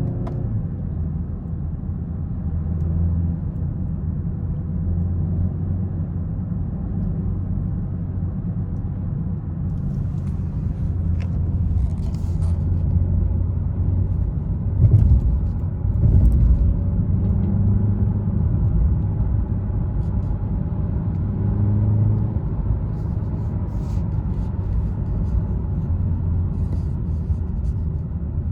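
The 2020 BMW 330i's turbocharged four-cylinder engine and road rumble while driving, with the engine pitch rising and falling several times as the car accelerates and eases off. There are two thumps about halfway through.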